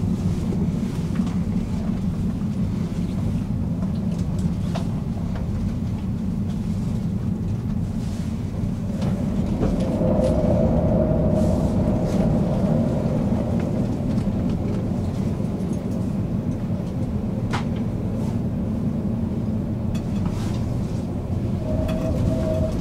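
Passenger train's running noise heard from inside the carriage as it slows into a station: a steady low rumble of wheels on rails, with a few sharp clicks. About ten seconds in, and again near the end, a steady high-pitched squeal of the brakes rises over the rumble.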